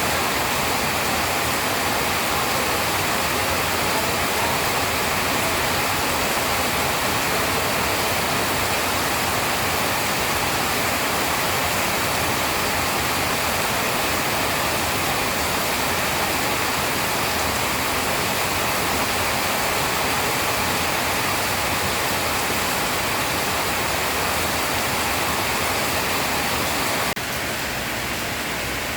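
Steady heavy rain, an even hiss with no single drops or thunder standing out. The sound steps down a little in level, abruptly, near the end.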